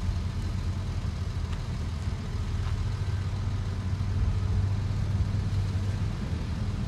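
Heavy diesel engine of earthmoving equipment running steadily at an even pitch, a low drone.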